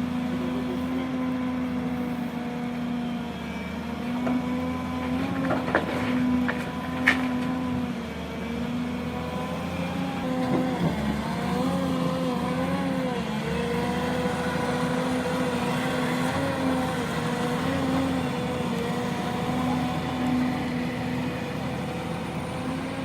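Construction machine engine running steadily, its pitch wavering slightly as the load changes, with a few sharp clanks about six to seven seconds in.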